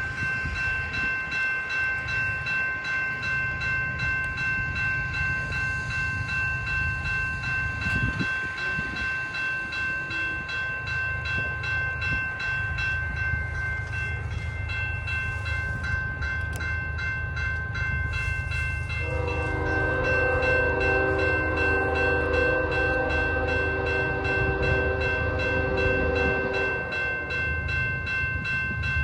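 Freight train led by KCS ES44AC diesel locomotives approaching, its engines running with a steady low rumble. A level-crossing bell rings with a fast, even pulse throughout. From about two-thirds of the way in, the locomotive's horn sounds one long blast, lasting about eight seconds.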